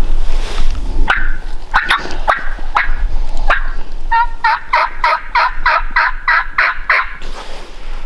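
Turkey yelping: a few sharp, scattered notes about a second in, then a steady run of about a dozen yelps, about four a second, that stops about a second before the end.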